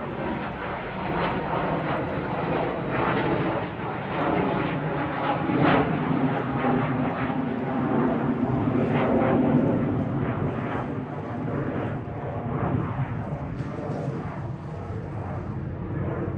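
Airplane engines running at takeoff power, a continuous rumble that grows louder to a peak in the middle and eases a little towards the end.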